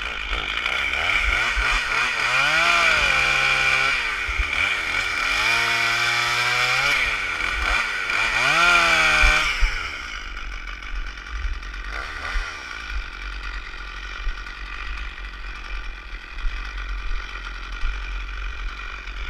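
A Stihl MS 460 Magnum two-stroke chainsaw revs up and down three times, then drops to a quieter, steadier run for the last half.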